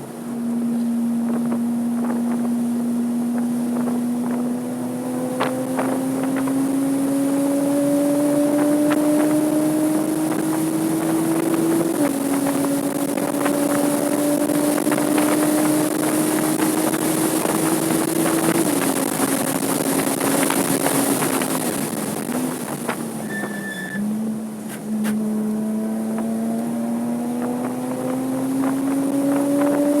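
Porsche 987.2 Cayman S flat-six engine pulling hard on track, its pitch climbing steadily with speed. The pitch drops with an upshift about twelve seconds in, drops again around nineteen seconds and once more near twenty-four seconds as the car slows, then climbs again.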